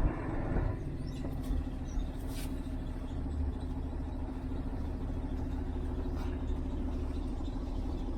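Heavy truck diesel engine running steadily at idle: a constant low rumble with a steady hum.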